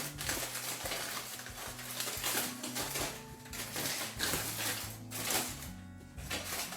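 Cooking utensil scraping and clattering in a pan, in uneven stretches of noise with short breaks, as the cooked chicken is taken out. Background music plays underneath.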